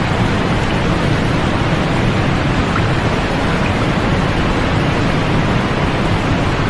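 Continuous sleep-aid noise: an even, unbroken rushing hiss, fuller in the low range than the high, with no change in level.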